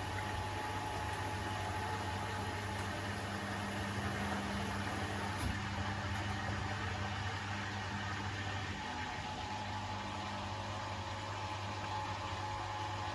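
Beko WTK104121A washing machine running with a steady motor hum.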